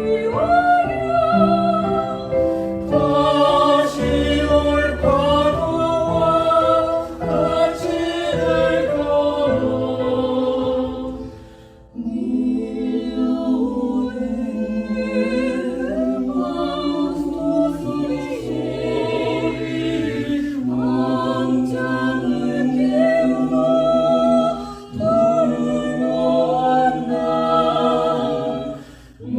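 Small mixed vocal ensemble singing in harmony with piano accompaniment, held notes with vibrato; the music breaks off briefly about twelve seconds in and again near twenty-five seconds, each time the voices coming back in together.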